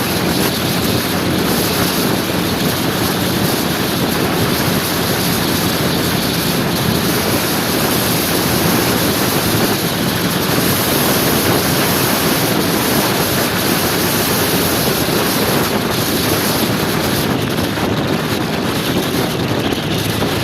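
Steady rush of wind on the microphone with the steady drone of a motor scooter's engine and road noise underneath, while riding at speed.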